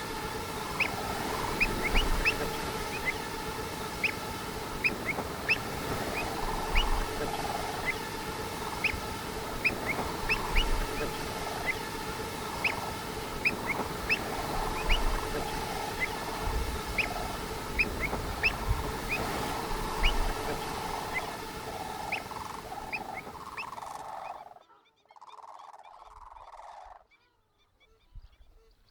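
Birds chirping: many short rising chirps, a couple a second, over a steady background noise. The whole sound cuts off abruptly near the end.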